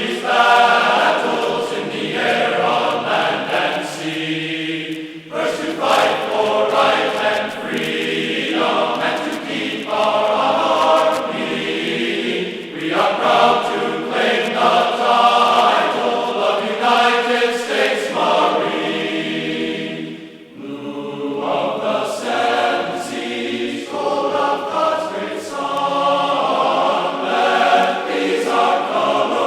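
A choir singing long held notes in phrases of several seconds, with a brief break about twenty seconds in.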